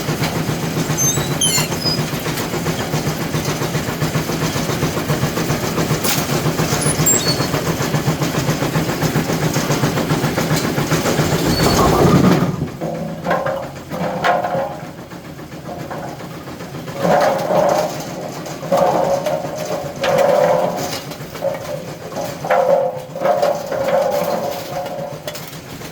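A-2 bowling pinsetter running on a test cycle after a newly made part has been fitted: steady, loud mechanical noise with a low hum. About halfway through it cuts off suddenly, and short pitched hoots then come and go in a slow, uneven series.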